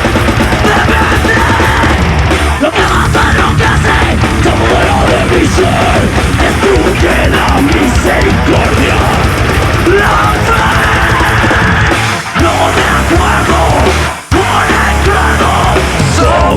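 Nu metal band playing live and loud, with heavy low end and shouted vocals over it. The band stops short for a moment twice near the end, about 12 and 14 seconds in.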